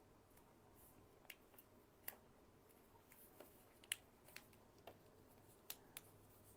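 Faint, irregular small clicks and ticks from straight pins being pushed through fabric and handled while pinning pieces together.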